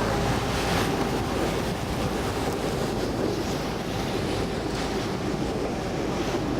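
Motorboat water taxi under way, its engine running steadily under a constant rush of wind on the microphone and water along the hull.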